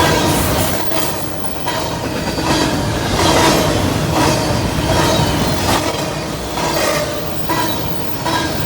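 Freight train of double-stack intermodal cars rolling past, steel wheels clacking over the rail joints about once a second, with a faint ringing squeal from the wheels.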